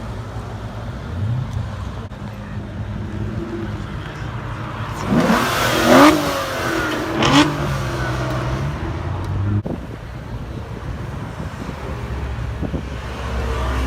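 A sports car's engine revved hard twice in quick succession, a sharp rising-and-falling blip about five to six seconds in and a shorter one about seven seconds in, over the steady rumble of idling engines.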